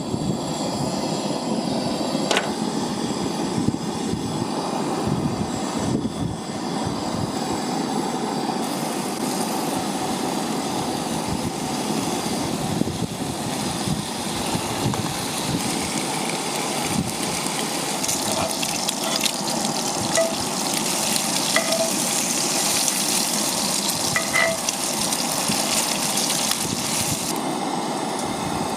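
Bacon frying in a cast iron skillet, a steady sizzle that grows brighter about nine seconds in, with a few small pops of fat later on.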